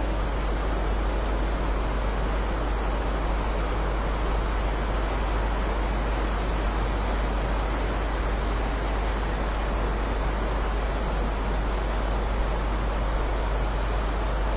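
Steady rain, an even rushing hiss with a constant low rumble underneath.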